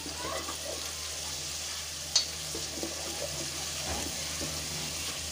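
Mutton liver curry sizzling in a pot while a wooden spatula stirs and scrapes through the thick gravy. There is one sharp knock of the spatula against the pot about two seconds in.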